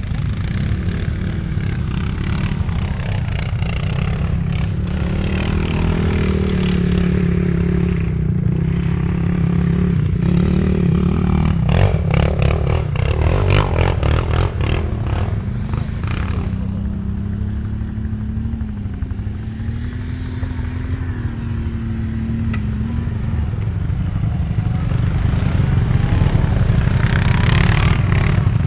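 Single-cylinder four-stroke quad bike (ATV) engine running under way, its revs rising and falling. Rattling and clattering through the first half.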